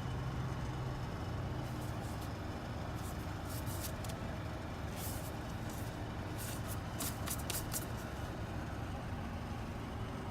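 A vehicle engine running steadily with a low hum. From about two seconds in to near the end it is overlaid by a string of short, sharp hisses and clicks.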